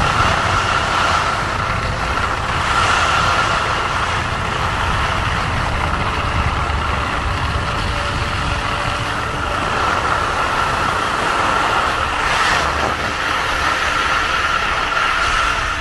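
Wind buffeting the microphone, a fluctuating low rumble over a steady rushing hiss.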